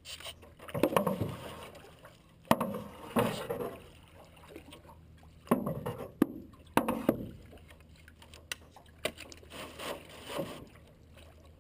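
Paddles stroking through creek water from a small paddled boat, in irregular splashy pulls with several sharp knocks among them.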